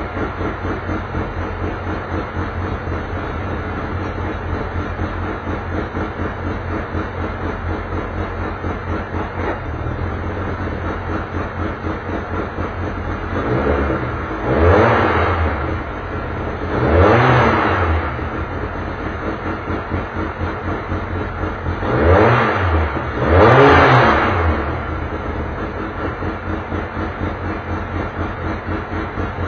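Touring race car engine idling with a regular pulse, revved four times: twice around the middle, then twice more in quick succession a few seconds later, each rev rising and falling in pitch.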